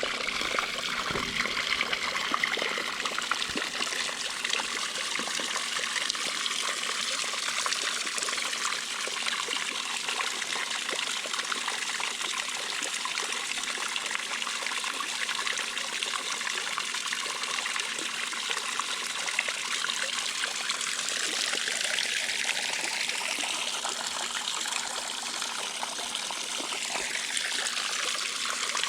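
Intex 28089 pool waterfall running: a steady sheet of water splashing down into the pool.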